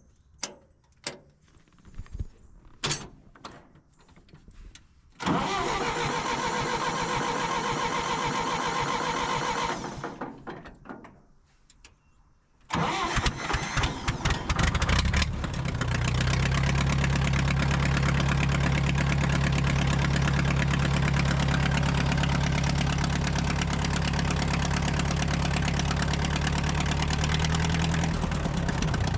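Farmall BN tractor's four-cylinder engine starting. After a few light knocks and a few seconds of steady whirring, it catches about thirteen seconds in, runs unevenly for a moment, then settles into a steady idle.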